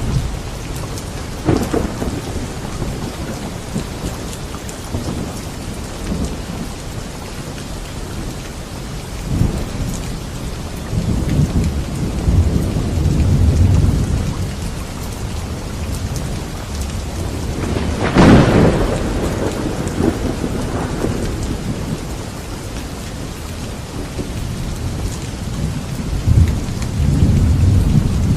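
Thunderstorm: steady rain with rolling low rumbles of thunder, and a sharp, loud thunderclap about two-thirds of the way through.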